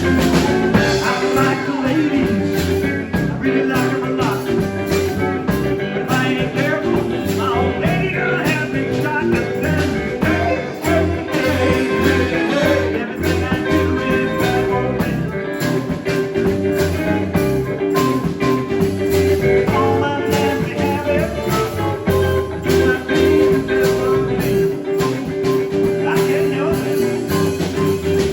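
Live band playing a blues-rock song, electric guitar over a steady drum beat.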